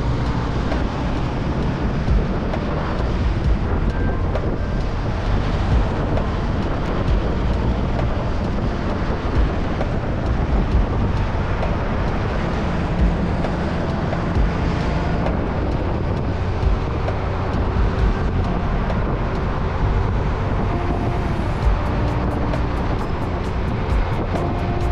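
Motorcycle being ridden at a steady pace: its engine running under a constant rush of wind on the microphone.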